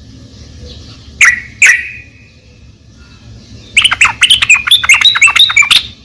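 Yellow-vented bulbul (trucukan) calling. Two sharp notes come about a second in, then a rapid chattering burst of song lasts about two seconds near the end.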